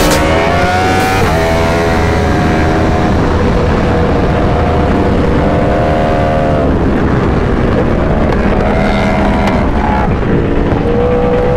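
Motorcycle engine running hard at high revs, its pitch climbing and then dropping several times as the throttle and gears change.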